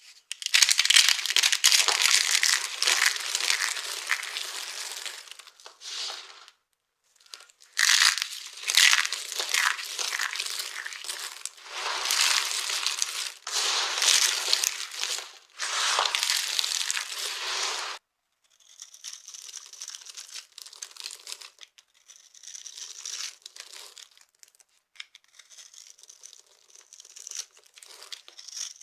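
Dry, brittle soap being crushed and crumbled by hand, a dense crisp crunching in long stretches with short pauses. From about 18 seconds in it turns to a much quieter crumbling crackle.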